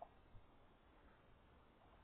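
Near silence: faint outdoor background hiss, with a couple of tiny faint ticks near the start.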